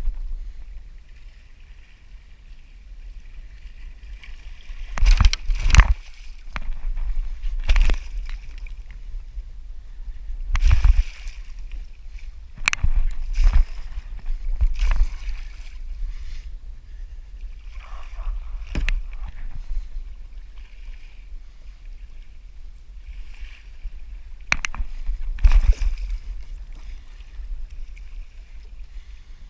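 Water sloshing and splashing around a kayak, broken by about ten irregular sharp knocks and splashes against the hull, with a low rumble underneath.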